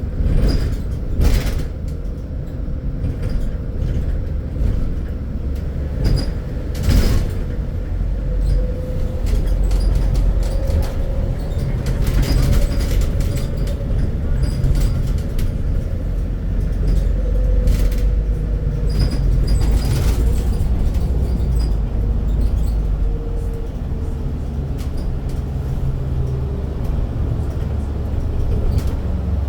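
Scania Citywide low-floor city bus running on the road: a steady low engine rumble with a faint whine that slowly rises and falls in pitch, and a few sharp knocks or rattles.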